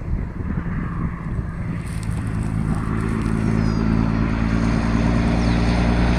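Propeller aircraft engine running steadily with a low, even hum that grows gradually louder, with wind noise on the microphone.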